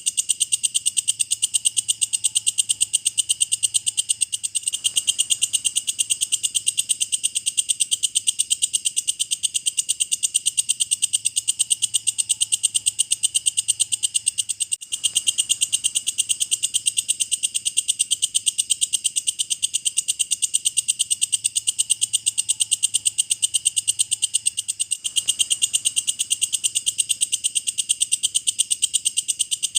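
Walang kecek, an Indonesian bush cricket, calling in a fast, even, unbroken run of sharp high clicks, over a faint low hum.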